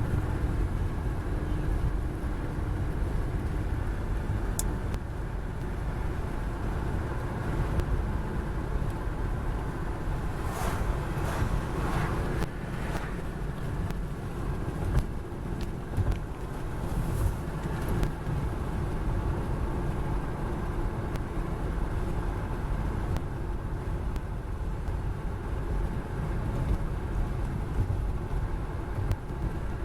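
Road and wind noise inside a moving car with a window rolled down: a steady low rumble, with a few brief louder swishes near the middle.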